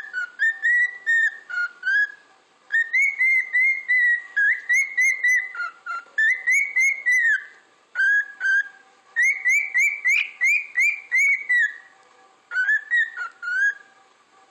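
Cockatiel whistling: quick runs of short, clear whistled notes that rise and fall, grouped into several phrases with brief pauses between them.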